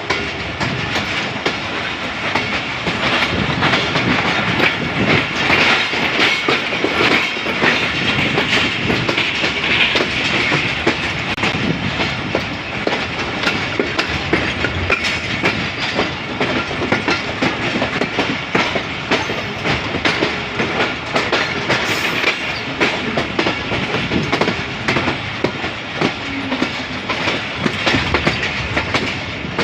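Passenger train running along the track: a steady rumble and rattle of the carriages, with the wheels clicking over the rail joints.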